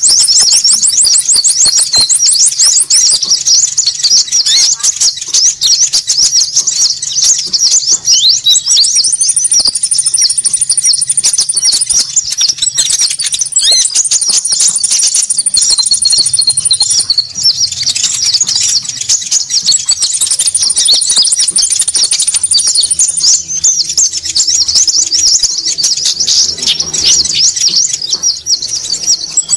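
Konin bird lure call: a loud, dense chorus of high-pitched chattering and trilling calls from many birds at once, with a thin, very high buzzing trill that comes and goes several times.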